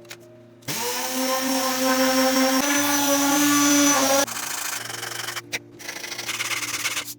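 A small power tool runs for about three and a half seconds with a whine that rises slightly in pitch, then cuts off. Quieter rough rubbing or grinding follows.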